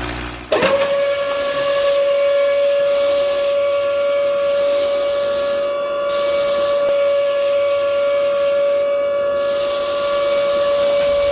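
A long, steady whistle-like tone that starts suddenly about half a second in and falls in pitch as it dies away at the end, with bursts of hiss coming and going over it.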